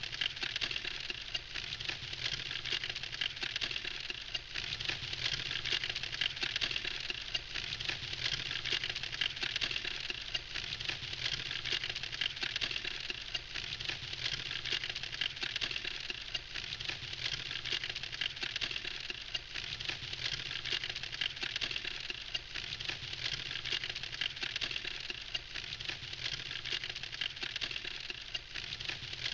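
Campfire crackling steadily, a dense run of small pops and snaps from the burning wood.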